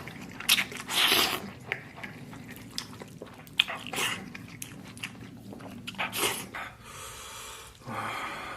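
Close-up eating sounds: slurping and chewing spicy instant noodles, in irregular short noisy slurps mixed with small clicks, the loudest about a second in and again around four and six seconds in.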